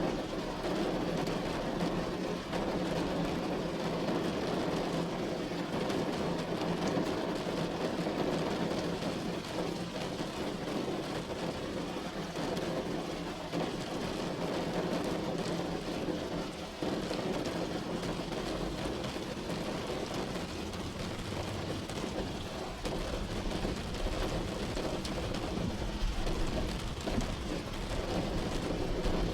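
Steady rain pattering on a roof, a dense even hiss with a low rumble underneath.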